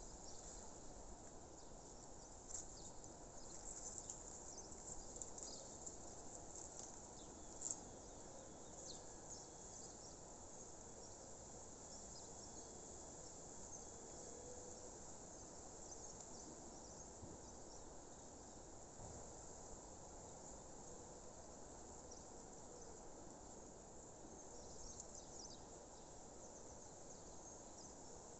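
Faint natural outdoor ambience: scattered high chirping, busiest in the first few seconds and again near the end, over a steady low hiss.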